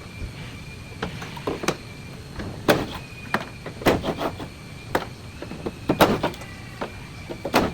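Irregular sharp knocks and clunks, about a dozen spread unevenly, as parts of a car are handled. A faint high steady tone comes and goes under them.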